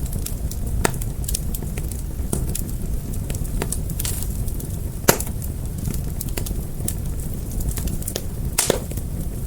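Wood fire crackling: irregular sharp pops and snaps over a steady low rumble of flame, with one louder pop about five seconds in.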